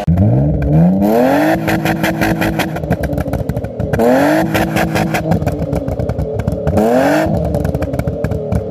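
Car engine revved hard three times, each time climbing straight up to a fast-acting rev limiter and held there. While held it bounces off the limiter with a rapid crackle of cuts and exhaust pops, and the revs fall away briefly between pulls.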